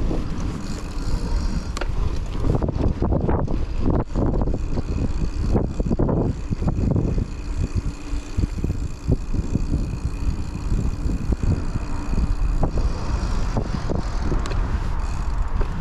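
Riding a hardtail mountain bike on an off-road trail, with wind rumbling on a chest-mounted camera's microphone. Tyre noise and scattered sharp rattling clicks come from the bike.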